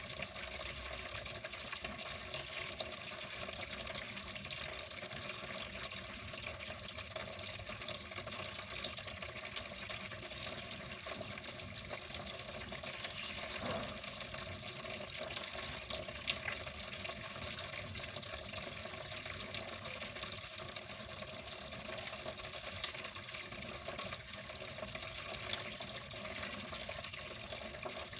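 Water flowing and splashing steadily, with a couple of slightly sharper splashes about halfway through.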